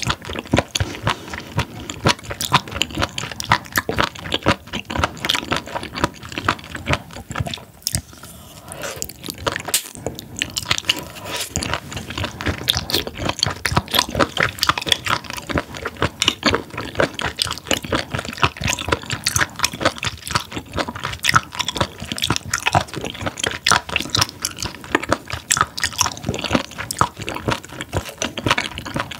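Close-miked chewing of raw spoon worm (gaebul): many quick, wet, crunchy clicks of the firm flesh between the teeth, easing briefly about eight seconds in before picking up again.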